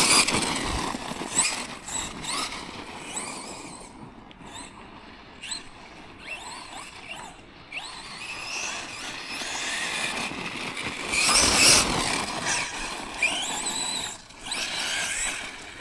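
Tekno MT410 2.0 electric 1/10 monster truck being driven hard: its brushless motor and drivetrain whine, rising and falling with the throttle in short bursts, with the loudest burst about eleven seconds in.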